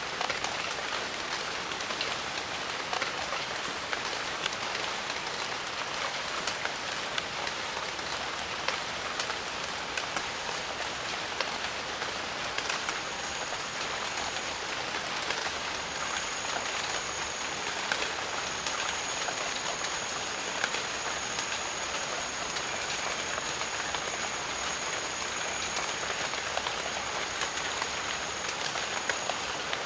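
Steady rain falling in a jungle, a dense even hiss with many individual drops ticking close by. A thin, high, steady tone joins about halfway through and holds on.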